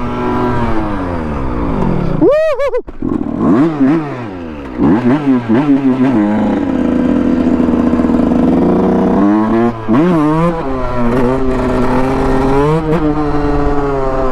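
Dirt bike engine revving and accelerating, its pitch climbing and dropping again and again as it goes through the gears. There is a sharp high rev about two seconds in and a steadier cruise in the middle.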